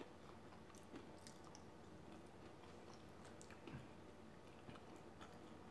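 Faint close-up chewing and small mouth clicks of a person eating, with a few light ticks scattered through; otherwise near silence.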